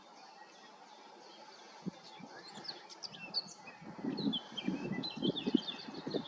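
Small songbird chirping in short rapid phrases, with a low irregular rustling that starts about four seconds in and gets louder.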